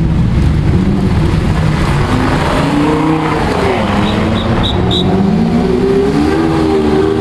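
Lamborghini Diablo GT's V12 engine: a low rumble, then the revs climb, drop back and climb again.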